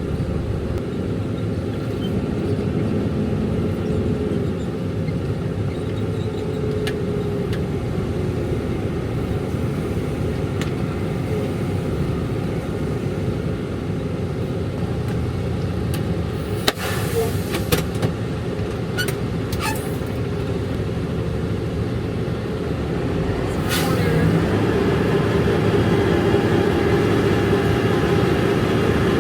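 Ready-mix concrete mixer truck's diesel engine running steadily, with a few sharp clicks and knocks about two-thirds of the way through, and the engine getting louder near the end.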